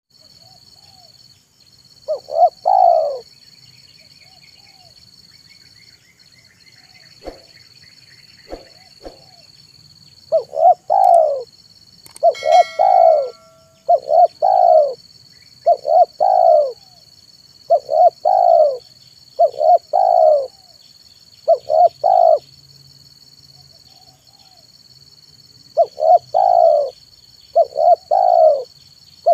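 Spotted dove (tekukur) cooing, its song repeated in short phrases about every two seconds, each a few quick notes running into a longer falling coo. A pause of a few seconds breaks the run before the end. A faint steady high tone runs under it.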